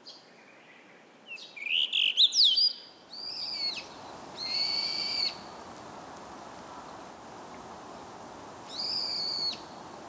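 Songbirds calling. First comes a quick run of rising whistled notes, likely the tail of the blue rock thrush's clear song. Then, about three seconds in, come three loud, shrill, high calls spaced apart, the brown-eared bulbul's call, over a steady outdoor background hiss.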